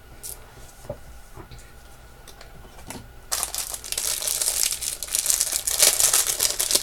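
A few light clicks and taps, then from about three seconds in, loud continuous crinkling and rustling of packaging being handled as jewelry is unwrapped.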